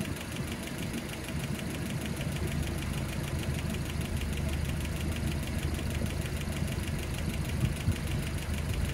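Land Rover Series 3 2.25-litre petrol four-cylinder engine idling, with a fast, even ticking of the valve gear over it. The ticking is valves 3 and 4 tapping, a sign that their clearances need re-setting.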